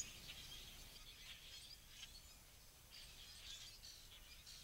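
Near silence with faint, scattered high-pitched bird chirps.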